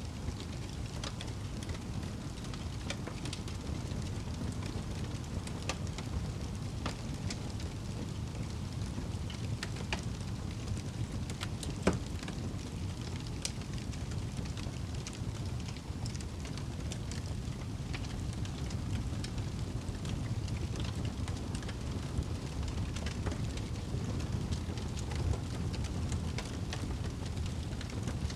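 Wood fire crackling in a fireplace: a steady low rush of flames with scattered small pops and snaps, and one sharper pop about twelve seconds in.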